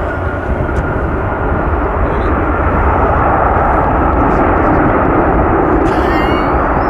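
Jet airliner's engines running loud and steady, a dense rushing noise with a deep rumble that swells slightly a few seconds in. A brief high chirp sounds near the end.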